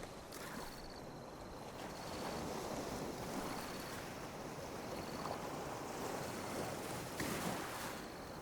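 Small ocean waves lapping on a beach: a continuous wash of water that swells about two seconds in, with a brief splash a little after seven seconds.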